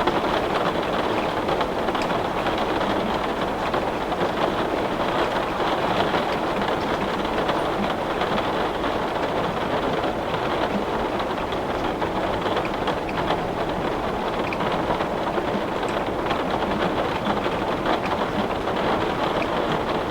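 Heavy rain falling steadily on window glass, a dense even hiss with scattered small taps of drops.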